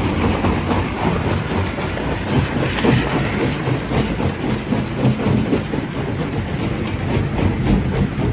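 Primary jaw crusher crushing rock: a steady, deep machine rumble under a constant irregular clatter and knocking of stone.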